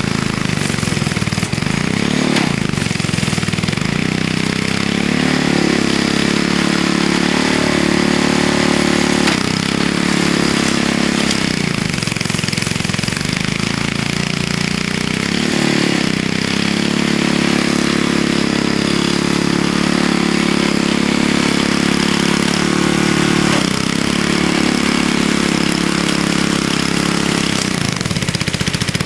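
Vintage Snow Bird snowblower's engine running under load in hard, ice-packed snow, its choke partly out. Its pitch sags and recovers several times as it bogs down and picks up again.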